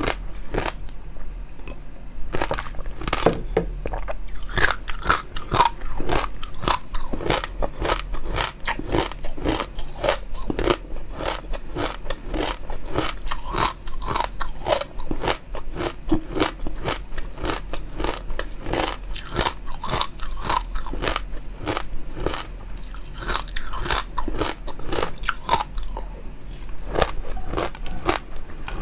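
Close-miked eating sounds: continuous chewing with many crunchy, wet bites and mouth smacks, several a second.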